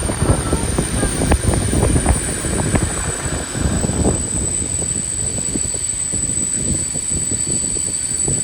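Train rolling on the rails: a dense, steady rattle and clatter that thins out after about four seconds.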